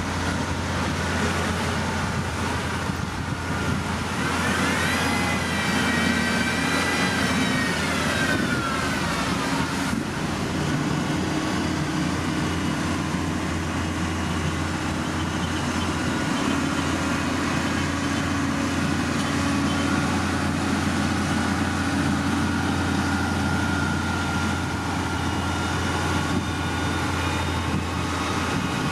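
Heavy construction machine engine running steadily, with a high whine that rises about four seconds in, holds, and falls away a few seconds later.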